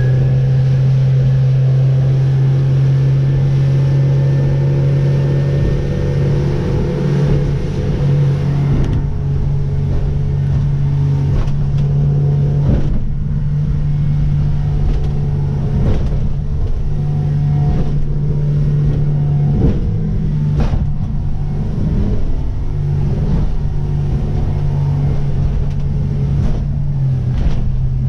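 Merry Fisher motorboat's engine running with a steady low hum. It is joined from about nine seconds in by repeated sharp knocks and bangs as the boat pounds through big waves.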